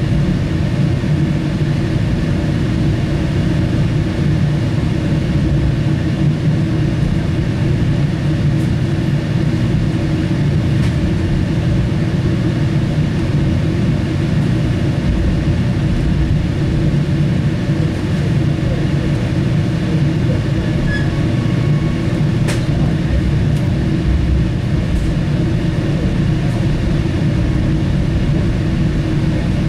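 Train running on the rails: a steady low rumble with a few faint clicks.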